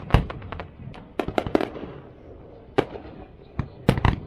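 Fireworks going off: irregular sharp bangs and cracks, some single and some in quick clusters, the loudest just after the start and another close group near the end.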